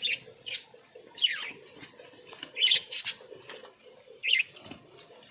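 Pet budgerigars chirping: about five short, sharp calls spread over the few seconds, one of them sliding down in pitch.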